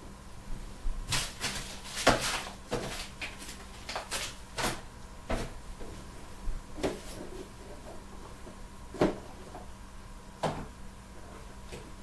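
A string of irregular sharp clicks and knocks, like small hard objects being handled or bumped, frequent in the first few seconds and then sparser, over a faint steady hum.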